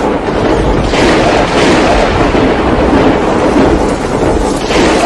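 Hailstorm: a loud, dense, continuous din of hailstones and rain pelting down and striking hard surfaces.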